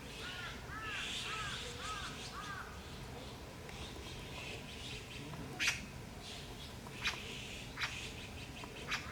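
A meerkat giving a quick run of about six short, arching chirps, followed later by a few sharp clicks.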